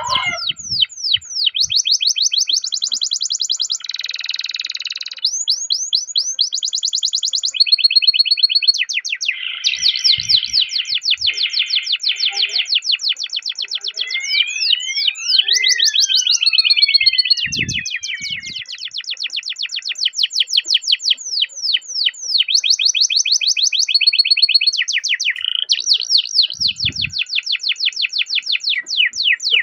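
Domestic canary singing a long unbroken rolling song: fast trills of rapidly repeated notes that switch from one run to the next every second or two, with a few sweeping rising and falling whistles about halfway through. It is a master or training song, used to prompt other canaries to sing.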